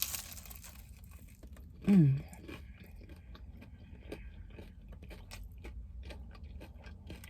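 Close-up crunching and chewing of crispy fried chicken, many small crackles all through. A short hummed vocal sound comes about two seconds in.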